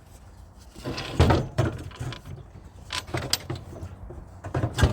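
Several irregular metal clunks and scrapes as a small pump engine is handled and worked loose from its steel cage frame.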